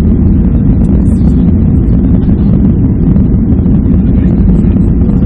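Airliner cabin noise: a loud, steady, deep rumble of the engines and rushing air, heard from inside the passenger cabin.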